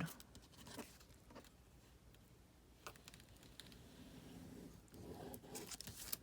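Near silence with a few faint taps and soft rustles of paper being handled and pressed down.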